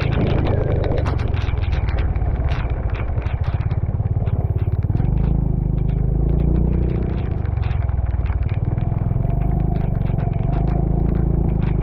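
Motorcycle engine running steadily under way, with frequent rattles and knocks from the machine jolting over a rough road.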